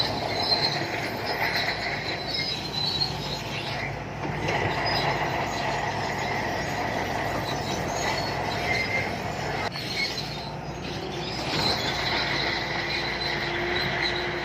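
SANTUI crawler bulldozer working: its diesel engine running steadily while the steel tracks squeal and clank.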